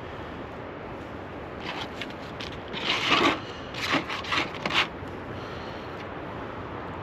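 A handful of short scraping, rubbing sounds about midway through, over a steady background hiss.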